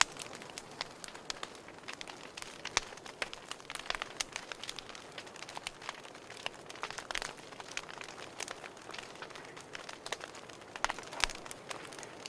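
Wood fire crackling in a fireplace: irregular sharp pops and snaps over a soft steady hiss of burning, with a few louder pops around three, seven and eleven seconds in.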